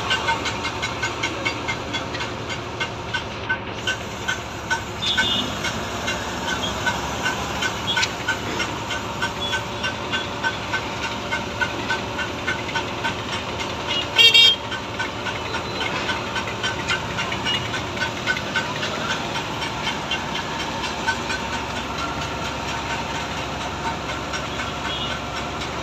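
Heavy machinery running on a construction site amid traffic noise, with a fast, regular ticking throughout. A short, loud blast comes about halfway through.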